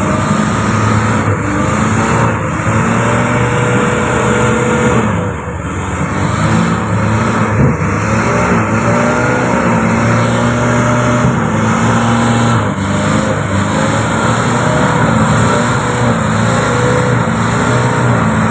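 Truck engine running hard under load, its pitch rising and falling, with a brief dip in level about five seconds in.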